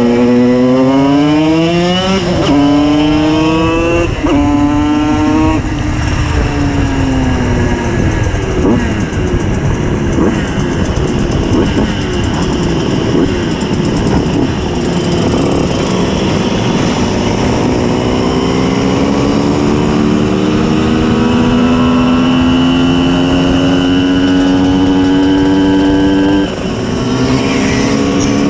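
Tuned 90 cc reed-valve two-stroke engine of a Simson S51 moped revving hard through the gears: the pitch climbs steeply with two quick upshifts in the first few seconds, then falls away as the throttle eases. After a rougher, noisier stretch, it holds a high, steady run that climbs slowly, then drops suddenly at a shift near the end.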